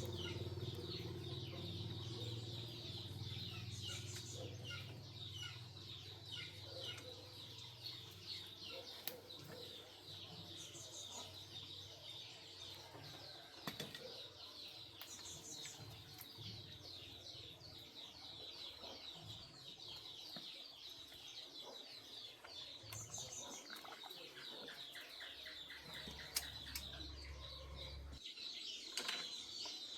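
Birds chirping steadily in many short, quick calls, with a faint low hum underneath.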